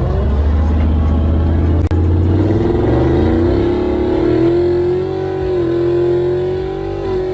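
Car engine revving hard, its pitch climbing for about four seconds and then held steady at high revs.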